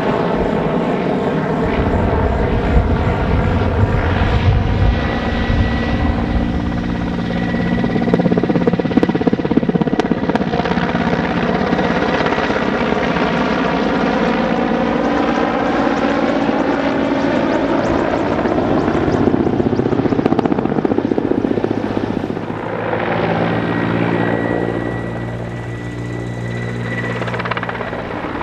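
Helicopter in a flying display: rotor beat and turbine engine whine, its tones sliding slowly up and down in pitch as it manoeuvres, easing off a little near the end.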